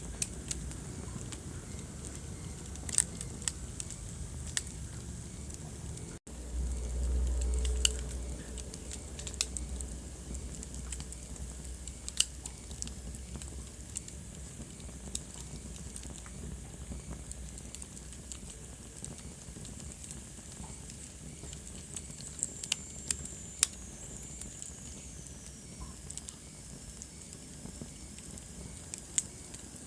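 Wood fire crackling in a fireplace: irregular sharp pops and snaps over a steady low rumble. About six seconds in the sound drops out for an instant, then the low rumble swells for a couple of seconds; past the two-thirds mark a faint high whistle slides down in pitch.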